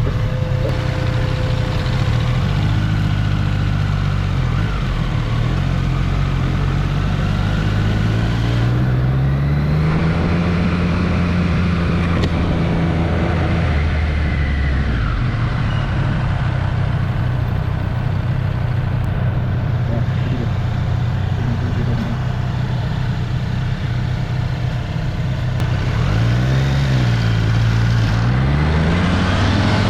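Triumph Street Triple's three-cylinder engine running under the rider, its pitch changing with the throttle. It climbs about ten seconds in, drops back around fifteen seconds, dips and rises twice near the end, then revs up again under acceleration.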